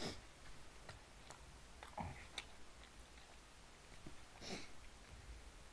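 A person chewing a mouthful of pizza, faint, with a few short mouth noises or sniffs spread through it.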